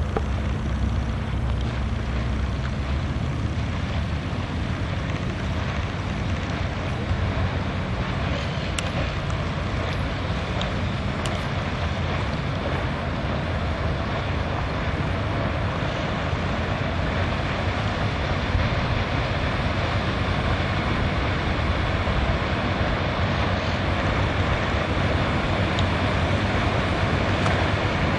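Motorboat engine running steadily while cruising: a low, even drone under a constant rushing noise.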